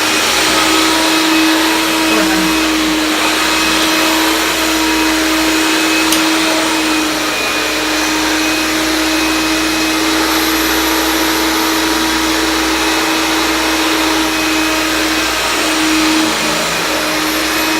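1975 Hoover Dial-a-Matic upright vacuum cleaner running steadily, its motor giving a constant hum over the rush of air. The owner hears it as a dry motor that doesn't run as well as it should and needs lubrication.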